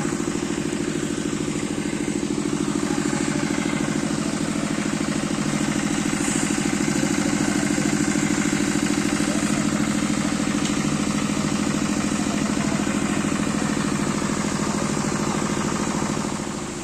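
A vehicle engine running steadily under way, with wind and road noise, easing off just before the end.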